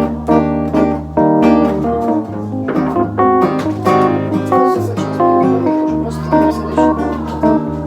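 Acoustic guitar playing an instrumental passage, single notes picked over held bass notes.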